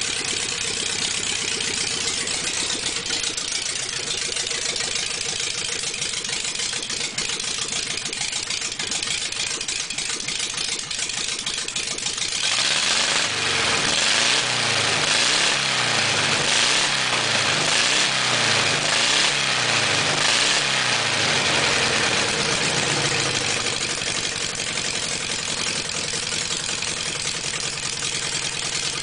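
Volkswagen 1600 air-cooled flat-four engine running at idle, then revved up and down repeatedly for about ten seconds from roughly the middle of the stretch, then settling back to idle. It is running after sitting for two or three years.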